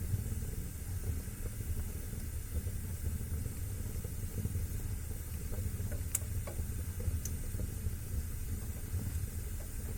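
Wood fire burning in a fireplace: a steady low rumble and hiss of the flames, with a few sharp crackles and pops, the loudest about six seconds in.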